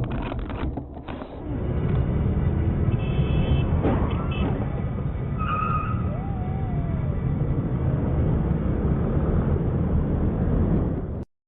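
Dash-cam recording from inside a moving car: a steady low rumble of road and engine noise, with a few sharp knocks in the first second and a short wavering tone around six seconds in. It cuts off suddenly near the end.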